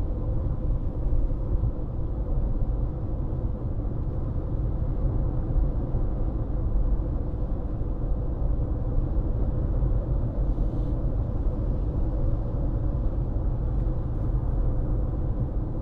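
A car driving at steady speed: an even low rumble of road and engine noise, with no change.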